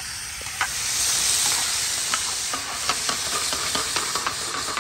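Chopped onions and tomatoes sizzling in hot oil in a steel pan, with a metal slotted spoon clicking and scraping against the pan as they are stirred. The sizzle swells about a second in.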